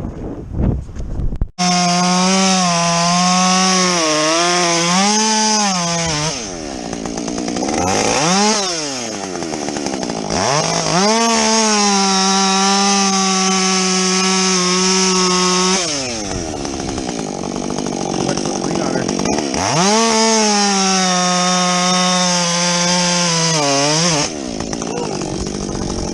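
Two-stroke Husqvarna chainsaw cutting through logs at full throttle, starting suddenly about a second and a half in. It makes three long cuts, its pitch sagging and wavering under load, and eases off between them, once dropping and climbing back in pitch.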